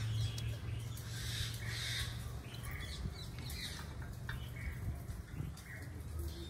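Birds chirping, short calls repeated about every half second, over a low steady hum.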